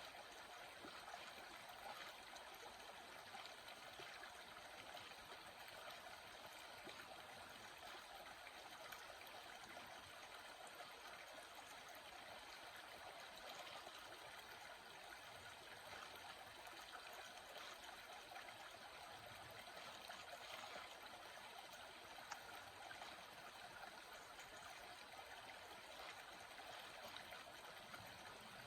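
A water stream flowing, a faint steady rush of running water.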